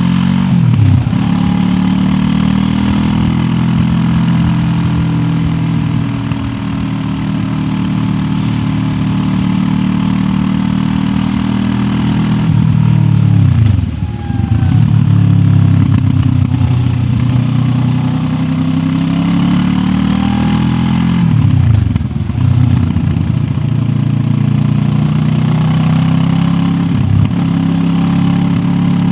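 QJ Motor SRT 700X parallel-twin motorcycle engine running under way, pulling through the revs; several times the pitch drops sharply and climbs again as it changes gear.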